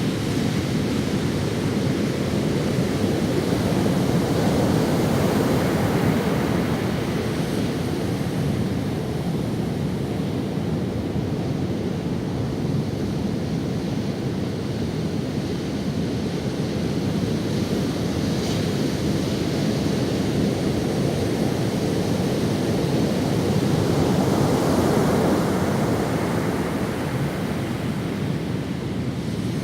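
Ocean waves breaking and washing up on a sandy beach, a continuous surf that swells twice as sets come in, with some wind on the microphone.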